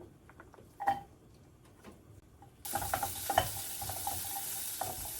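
A few light knocks, then, just past halfway, food goes into hot oil in a pan and a steady sizzle starts suddenly. The sizzle carries on with clicks and scrapes from a utensil stirring in the pan.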